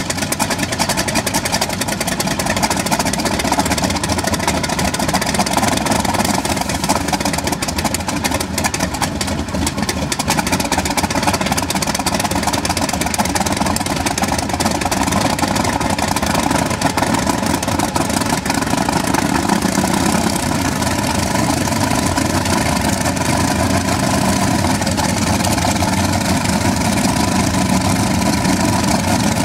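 The Kamov Ka-26 helicopter's twin Vedeneyev M-14V-26 nine-cylinder radial piston engines running steadily after a cold start.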